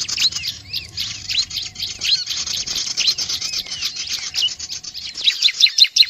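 Small songbirds, the prinias called prenjak and ciblek, chirping rapidly. Many fast high notes sweep down and up and overlap, and the notes grow denser and louder near the end.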